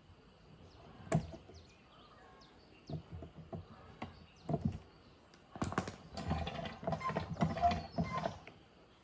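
Scattered knocks and clatter of hard objects being handled. There is one sharp knock about a second in, a few more a few seconds later, and a busier run of clattering with some metallic ringing near the end.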